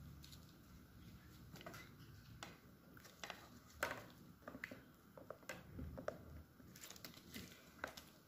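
Faint, irregular clicks and taps, with a couple of sharper ones about four and eight seconds in.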